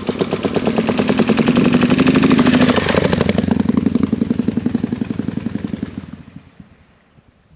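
Motorcycle engine running with an even, pulsing beat. It grows louder over the first couple of seconds, then fades out near the end.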